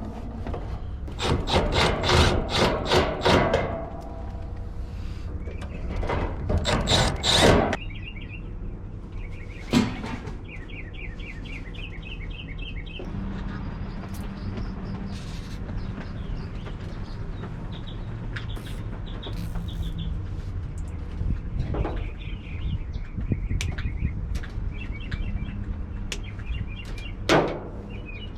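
Clattering and single knocks from hands-on work on an HVAC unit, in two bursts early on and a few lone knocks later, over a steady low hum. Small birds chirp in short repeated runs between the knocks.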